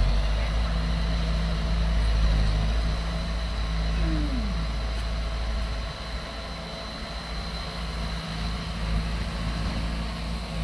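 Engine of heavy earthmoving machinery running steadily with a deep rumble that eases off about six seconds in. A short falling tone comes about four seconds in.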